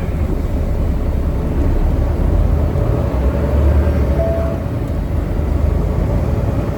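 Heavy truck's engine running with a steady low rumble and road or mechanical noise.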